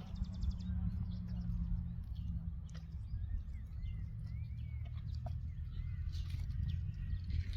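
A few short bird chirps and a brief fast high trill over a steady low rumble.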